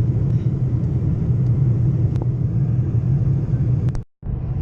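Steady low rumble of a Boeing 747-400 airliner heard inside the cabin. It cuts out for a moment about four seconds in, then resumes.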